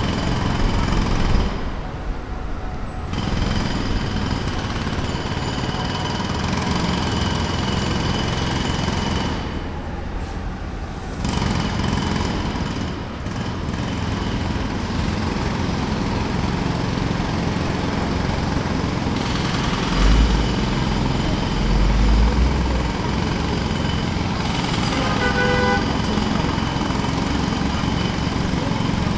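Jackhammer hammering in long runs. It breaks off briefly about two seconds in and again about ten seconds in, while a low engine rumble carries on through the breaks. Two heavy low thumps come around twenty seconds in.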